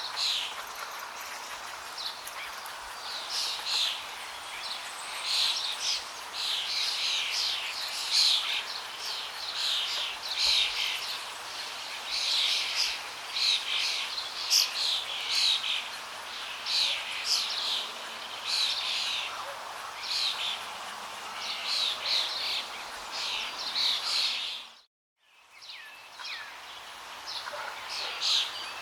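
Songbirds chirping in quick repeated bursts over the steady rush of flowing water. About 25 seconds in, the sound cuts out completely for a moment, then fades back in with the water and fewer bird calls.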